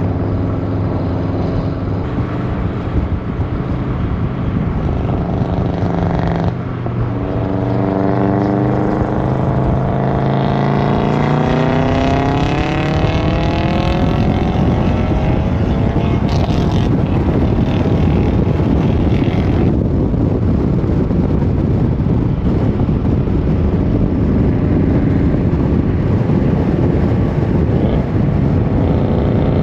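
Subaru WRX turbocharged flat-four engine running through a custom 3-inch exhaust as the car is driven. It holds a steady note, drops briefly at a gear change about six seconds in, then climbs steadily in pitch under acceleration. From about fourteen seconds on, a steady, even rush takes over.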